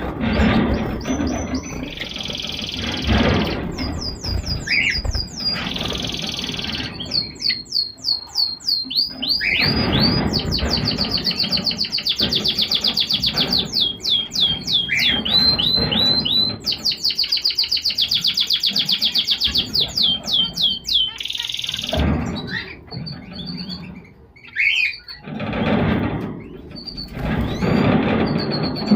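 Small cage birds singing and chirping, with long runs of fast repeated high notes about ten a second and shorter calls in between.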